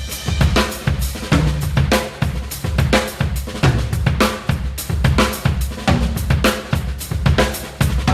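Acoustic drum kit played in a busy groove and fills: kick drum, snare, toms and Zildjian A Custom cymbals and hi-hats, with strokes coming several times a second.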